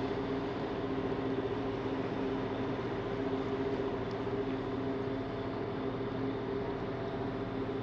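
A passenger ferry's engines running steadily while underway, heard on board: an even rushing noise with a constant low hum in two tones.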